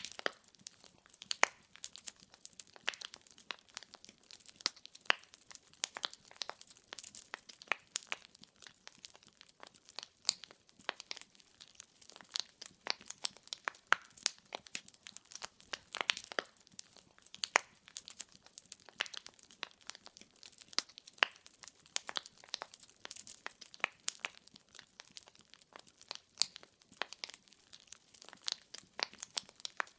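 Firewood burning in a fireplace, crackling and popping irregularly and without a break, with now and then a sharper, louder pop.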